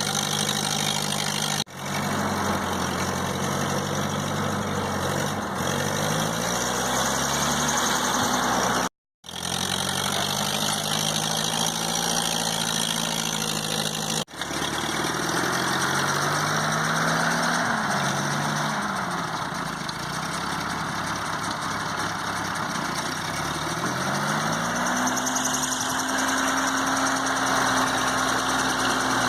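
Ford 8N tractor's four-cylinder flathead gas engine running under varying throttle, its pitch climbing and dropping back several times as it revs up and settles. The sound breaks off abruptly a few times, once into a moment of silence.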